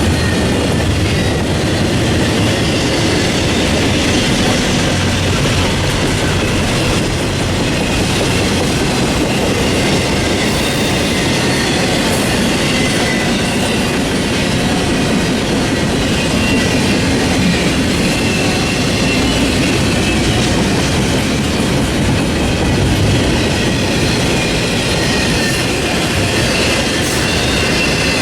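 Freight train cars rolling past on the rails: a steady, loud rumble of steel wheels on track, with faint wavering wheel squeal.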